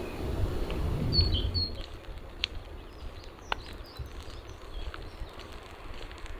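Outdoor ambience: a low rumble that fades after about two seconds, with a few short bird chirps about a second in, then scattered light taps.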